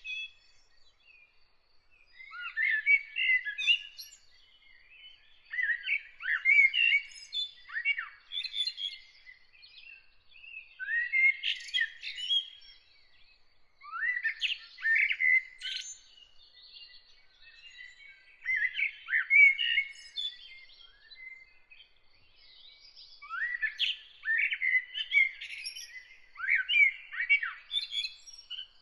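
A songbird singing in varied phrases of about two seconds each, with pauses of a second or two between them. Underneath, a faint high note repeats rapidly and evenly, likely from another bird.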